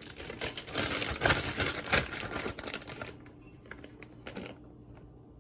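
Plastic Hefty bag crinkling as it is handled and opened: dense crackling for about three seconds, then one short crinkle a little over four seconds in.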